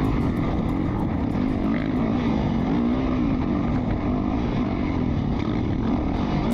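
Off-road racing motorcycle engine running under the rider, its pitch rising and falling again and again as the throttle opens and closes.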